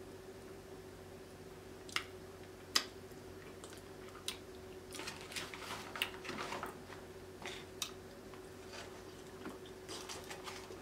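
Close-miked wet chewing and mouth smacks of someone eating sauce-soaked lobster tail meat. There are a few sharp clicks about two and three seconds in, and a busier stretch of squishy chewing in the middle and again near the end.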